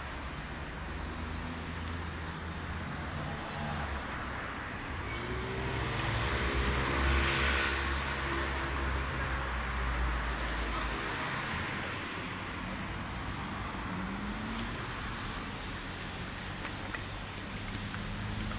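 Street traffic: cars passing on a rain-wet road, the loudest going by about seven seconds in, swelling and then fading.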